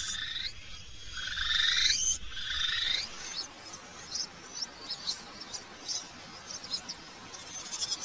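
Forest bird calls: about three loud, drawn-out calls in the first three seconds, then a run of many short, high chirps.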